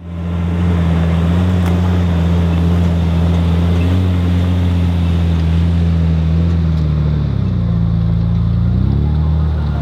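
4WD engine running steadily under load, its pitch dipping and then rising again about seven to nine seconds in.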